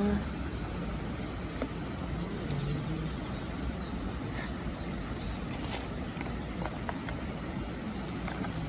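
A small bird chirping a quick run of short high notes over a steady outdoor background rumble, with a few faint clicks.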